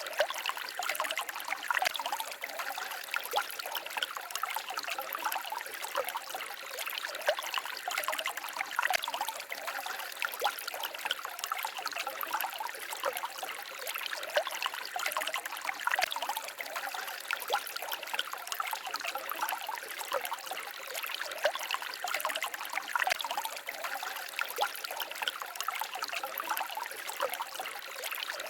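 A small stream babbling and trickling steadily, many small splashes and gurgles close together, with little bass.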